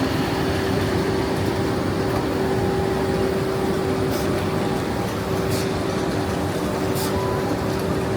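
Railway station ambience: a steady mechanical hum with a held tone, broken four times by short, sharp hisses.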